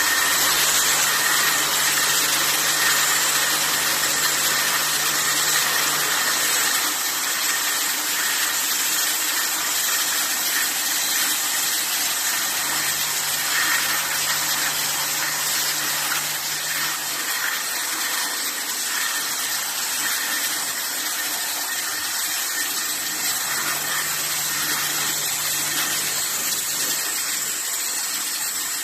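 Aerosol can production line machinery running with a steady, hissing mechanical noise and a faint high whine. A low hum comes in for about five seconds at a time, three times, as the machines cycle.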